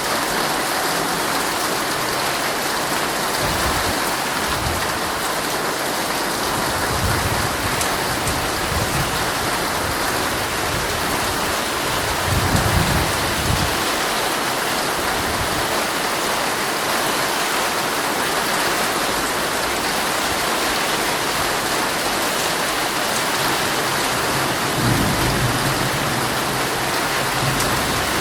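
Heavy rain drumming steadily on a tent, heard from inside, with low rolls of thunder rumbling underneath. The strongest roll comes about halfway through and another near the end.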